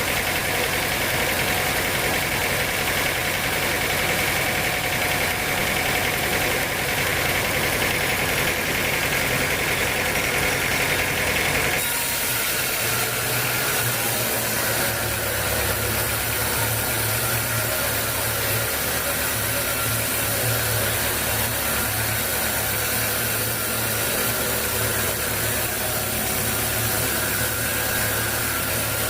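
Sawmill machinery running steadily with an engine hum and no cutting strokes; the sound changes abruptly about twelve seconds in.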